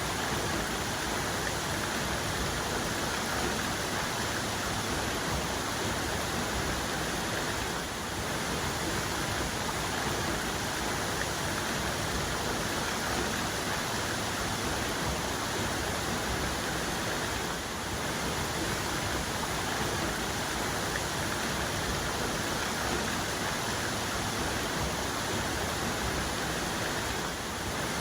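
Waterfall's main cascade, water pouring in a steady, even rush.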